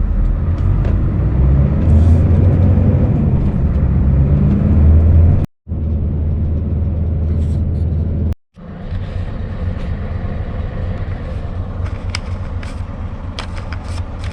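Scania S650 V8 lorry on the move: a steady low engine and road rumble. The sound cuts out abruptly twice, about five and a half and eight and a half seconds in.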